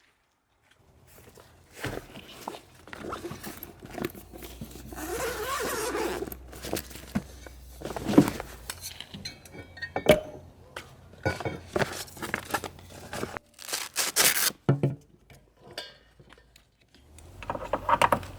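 Gear being handled: rustling and scraping broken by irregular sharp clicks and clacks.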